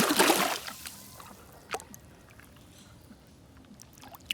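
Water splashing over a toy vehicle as it is rinsed, stopping under a second in; then quiet, with a couple of sharp clicks from the toy being handled.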